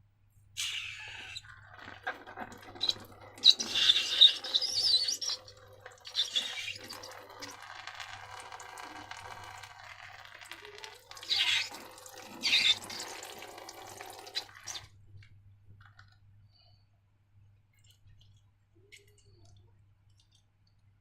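Slime being squeezed and worked by hand: irregular wet squelching and crackling. It stops about 15 seconds in.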